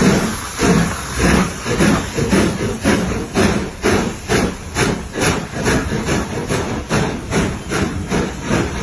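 Steam locomotive exhaust chuffing in a steady beat over a hiss of steam. The beats quicken from under two a second to about three a second as the engine gathers speed.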